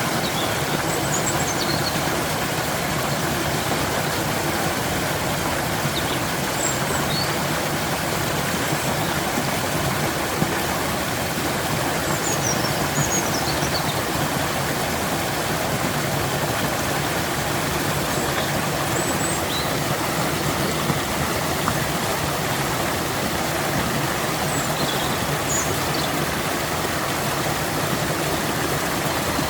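Stream water flowing and rushing in a steady, unbroken wash, with faint short high chirps every few seconds.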